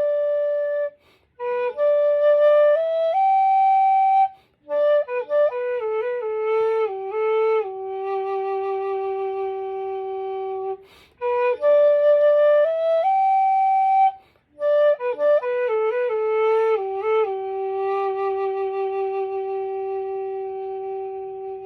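Unaccompanied nanxiao, a southern Chinese end-blown bamboo flute in G, playing a slow melody: phrases of short stepping notes settling onto long held notes, with brief breath pauses between phrases. The last long note fades out at the end.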